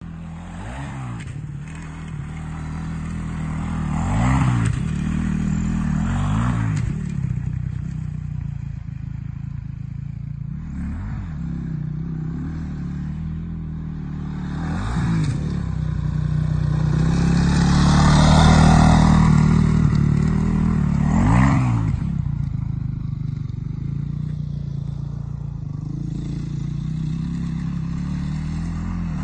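Honda CRF450 motocross bike's single-cylinder four-stroke engine running, repeatedly revving up and dropping back with about half a dozen sharp blips of the throttle. It is loudest in a longer pull about two-thirds of the way through.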